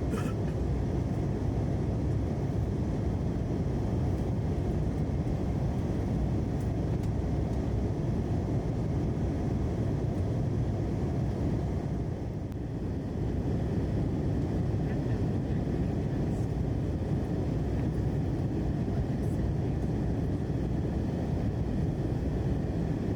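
Airbus A321 cabin noise in flight: a steady low rush of engine and airflow noise, dipping slightly about halfway through.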